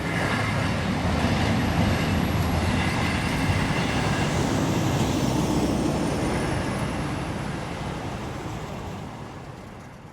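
Intermodal freight train rolling past the crossing, a steady rumbling noise that fades away over the last few seconds.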